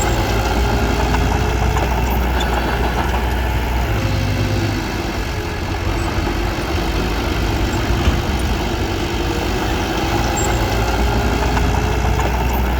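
Diesel engine of a small Komatsu D21P crawler bulldozer running steadily, dipping slightly in level about five seconds in.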